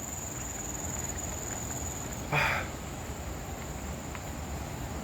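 Insects chirring steadily in tropical forest, one continuous high-pitched trill that drops out about two seconds in while a higher, fainter one carries on. A brief soft noise is heard about halfway.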